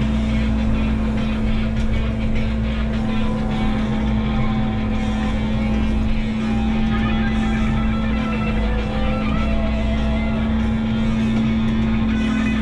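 Menzi Muck walking excavator's diesel engine running steadily with a constant low hum, mixed with background music.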